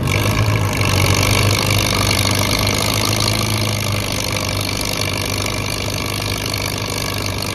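Antique farm tractor engine running steadily at a tractor pull, with a low hum and a loud hiss.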